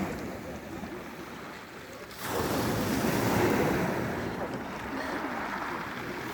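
Surf of a rough, stormy sea: a wave breaks about two seconds in, and its wash rushes up and slowly dies down.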